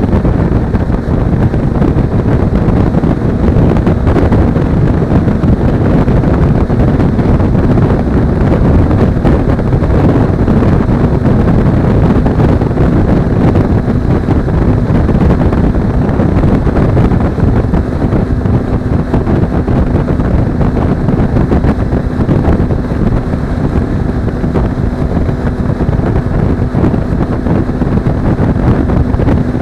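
Steady wind rumble buffeting an action camera's microphone on a moving Suzuki V-Strom 250 motorcycle. A faint steady engine drone sits underneath and comes through a little more clearly near the end.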